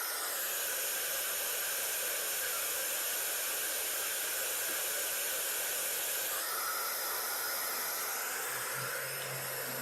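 Steady white-noise hiss, shifting slightly in tone about six seconds in, with a faint low hum appearing near the end.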